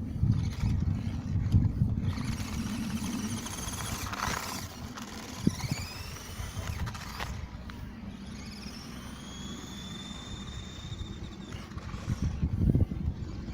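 Small electric motor of a toy-grade NQD RC monster truck whining, its pitch rising and falling as the truck speeds up and slows down, with one longer whine slowly dropping in pitch. Low rumbling noise comes in at the start and again near the end.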